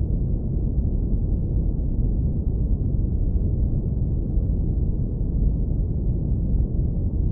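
Synthetic brown noise low-pass filtered to a deep, steady rumble, with nearly all of its energy in the bass and nothing high.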